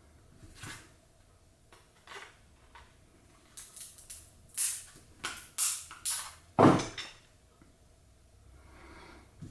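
A tool cutting and snapping apart a thick plastic screw-down card case: a series of sharp cracks and snaps, coming thick and fast from about a third of the way in, the loudest and fullest crack about two-thirds through.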